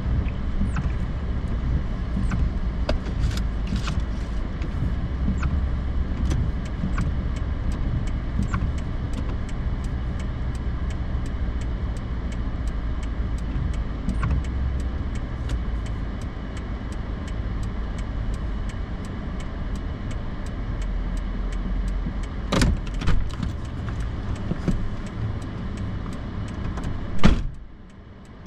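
Steady low rumble of a Toyota Tundra pickup driving on a snowy road, heard inside the cab, with scattered light ticks. Near the end come two sharp knocks, and after the second the sound drops noticeably quieter.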